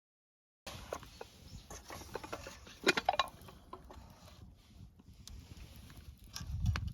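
A series of small knocks and clatters of objects being handled, loudest in a quick cluster about three seconds in, with a low rumble near the end.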